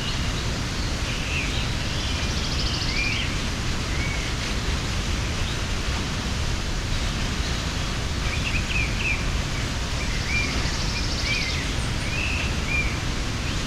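Steady rushing of a mountain waterfall, with small birds chirping over it in two spells, each with a brief buzzy trill.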